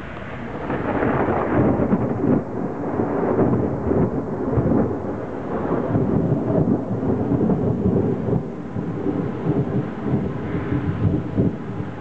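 Thunder rumbling: the roll swells about a second in and goes on with rising and falling loudness.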